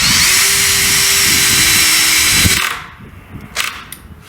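Power drill driving a small bolt, its motor running steadily with a faint rising whine, then stopping about two and a half seconds in. A few light clicks follow near the end.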